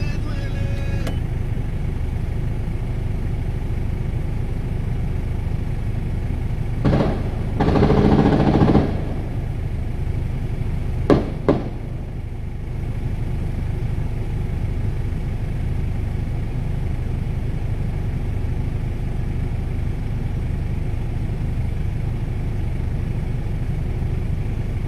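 Steady low rumble of an idling car engine with street traffic. About seven seconds in, a louder burst lasts roughly two seconds, and a few seconds later come two sharp bangs about half a second apart.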